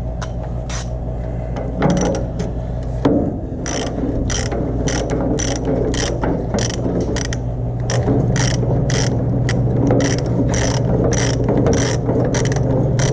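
Socket ratchet clicking in steady back-and-forth strokes, about two to three a second, backing off the bandsaw mill's blade-tension bolt, over a steady low hum. A couple of knocks come just before the ratcheting starts.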